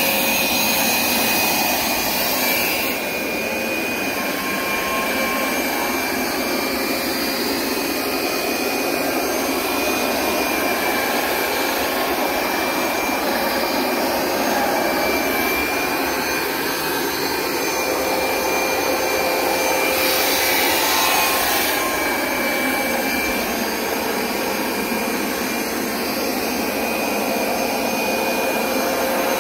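Hoover SmartWash Pet Complete carpet cleaner running in dry-only mode: its suction motor pulls water out of the carpet with no spraying, a steady whine over a rushing hiss. The hiss changes briefly a few times.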